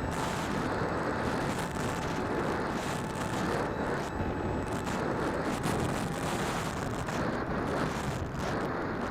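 DJI Phantom quadcopter's motors and propellers running steadily in flight, heard from a keychain camera mounted on the drone: a constant rushing noise with a faint thin whine, mixed with wind on the microphone.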